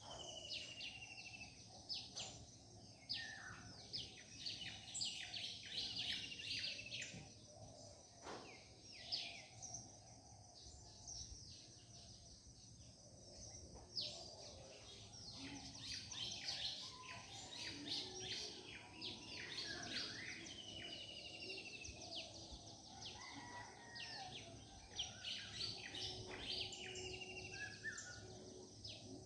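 Several birds singing and chirping at once in a morning chorus: many quick overlapping notes, some sliding down in pitch, over a steady low background noise.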